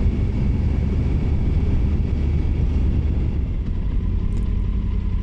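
Triumph Tiger 900 Rally Pro's three-cylinder engine running steadily while riding, heard as a low, even rumble.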